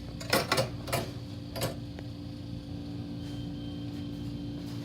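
A few light clicks and taps, four in the first two seconds, from small parts being handled while the speed control is refitted on a Blizzard machine, over a steady low hum.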